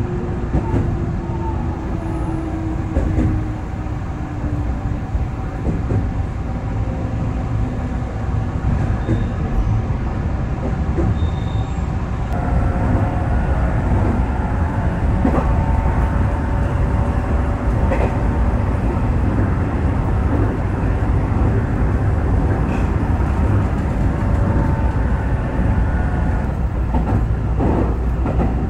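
Electric commuter train running, heard from inside the car: a steady low rumble of wheels on rail with occasional rail-joint clicks. A motor whine grows a little louder after about twelve seconds.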